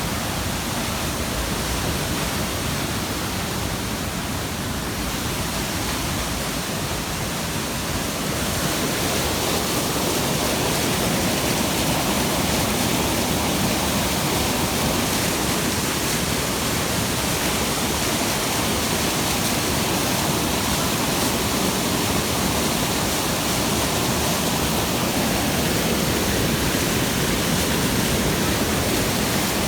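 Steady rush of falling water from Aira Force waterfall, an even roar that grows a little louder about eight seconds in.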